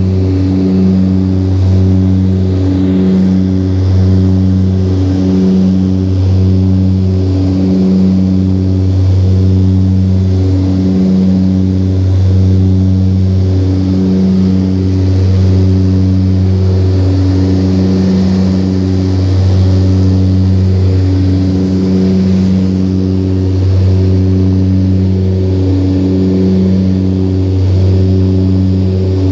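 Let L-410 Turbolet's twin turboprop engines and propellers running with a loud, steady low drone. The drone swells and fades about once a second, the beat of two propellers turning slightly out of step.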